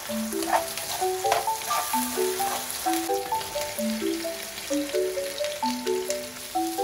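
Food sizzling in a frying pan, with scattered crackles, under background music playing a light melody of short notes.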